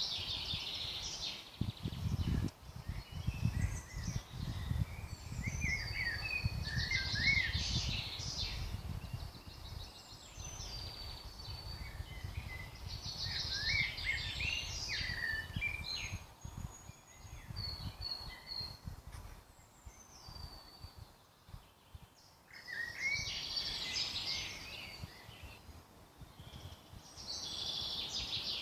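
Woodland songbirds singing in short, whistled phrases that come every few seconds. A low rumble runs underneath and fades out after about twenty seconds.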